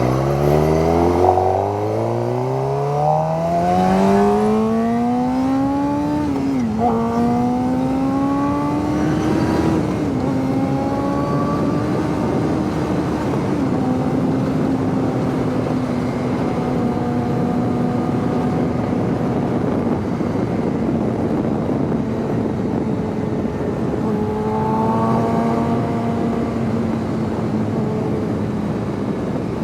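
Suzuki GSX-R sport bike's inline-four engine pulling hard as the bike accelerates, its pitch climbing and then dropping with upshifts about six and ten seconds in. After that it cruises at a steady pitch under a constant rush of wind noise.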